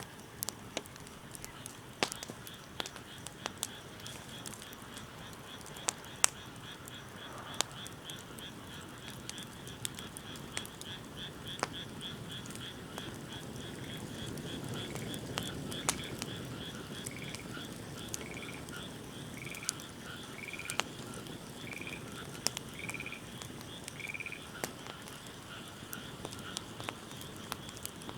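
Wood fire crackling with scattered sharp pops, while frogs call: a rapid pulsing trill throughout, joined about halfway through by a second call repeated about once a second.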